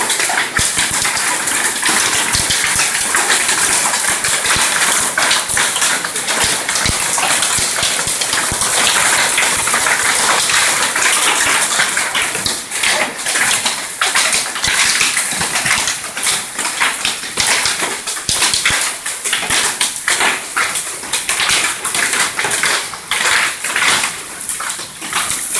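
Heavy hail and rain pounding down: a loud, dense hiss packed with sharp knocks of hailstones striking, the separate strikes standing out more in the second half.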